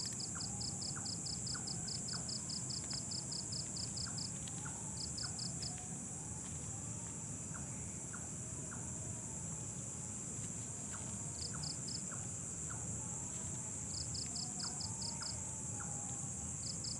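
Night insect chorus: a steady high-pitched drone with a cricket chirping in quick pulse trains that pause around six seconds in and return near the end, over a low steady rumble.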